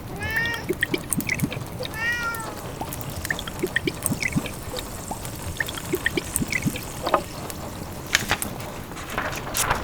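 A domestic cat meows twice, short rising-then-falling calls at the start and about two seconds in, over a wood fire crackling with many small sharp pops and a steady hiss of rain.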